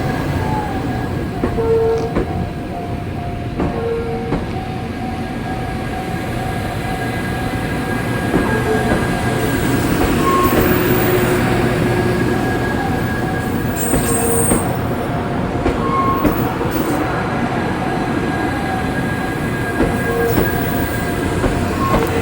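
Doctor Yellow inspection train running past a level crossing: a loud, steady rail rumble that swells to its loudest about halfway through. A steady ringing tone from the crossing's warning signal sounds over it.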